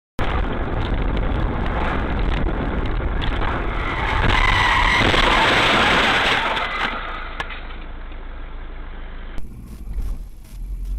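Car on the road recorded by a dashcam: steady road and engine noise that grows louder for a couple of seconds around the middle, then eases off.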